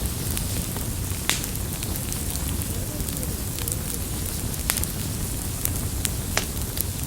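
Campfire burning: a steady low rumble and hiss of the flames, with scattered crackles and sharp pops from the burning wood. The loudest pops come a little over a second in, just past the middle and near the end.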